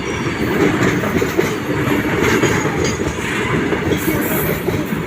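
Indian Railways train running at speed: a steady, loud rumble of wheels on the track, with a brief high hiss about four seconds in.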